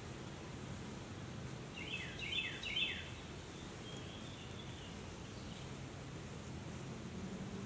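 A songbird singing in the background: three quick falling chirps about two seconds in, then a fainter warbled phrase, over a steady low background noise.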